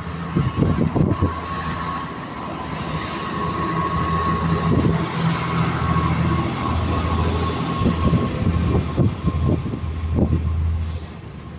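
Freight train hauled by Class 66 diesel locomotive 66693 passing close by. A steady low rumble runs with a constant whine, broken by repeated knocks of wheels over the rails, and it drops away near the end.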